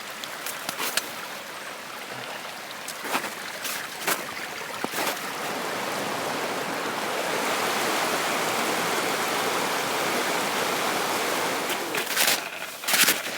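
Hiking footsteps on a trail, a few scattered steps near the start and a quick run of them near the end. A steady rushing noise swells through the middle and then eases off.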